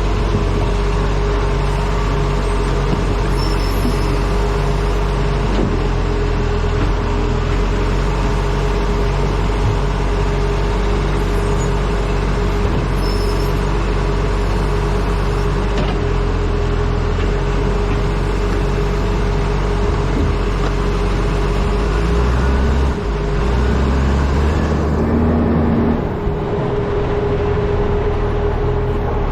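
Refuse truck engine running steadily while driving, with wind noise on a camera mounted to the front of the truck. The engine note shifts a few times near the end.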